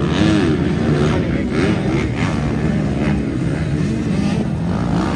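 Motocross dirt bike engines revving on the track, the pitch repeatedly rising and falling as riders open and close the throttle through the corners.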